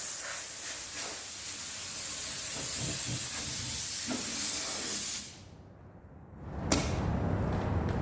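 Steady loud hiss of a torch cutting through the steel skin of a bulldozer blade, stopping abruptly about five seconds in; a single sharp clank follows a second and a half later.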